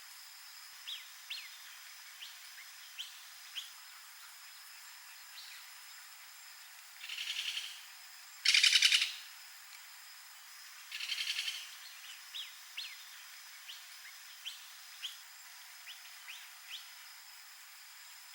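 Wild birds calling: many short, sharp downward chirps scattered throughout, and three rapid rattling calls a little before halfway and around 11 seconds in, the second the loudest. Faint steady high-pitched tones lie underneath.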